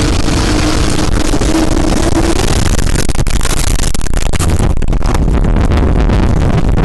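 Loud, steady rumbling roar of tornado-force wind, with a faint steady tone under it for the first two seconds or so. From about three seconds in, the roar breaks up with brief dropouts.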